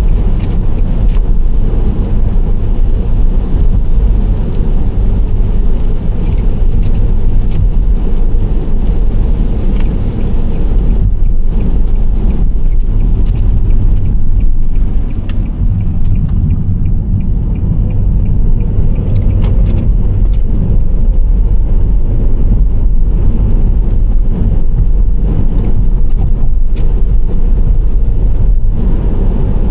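Nissan Serena C25 minivan driving at a steady speed: a continuous low rumble of tyre and road noise with engine hum, and a few faint clicks.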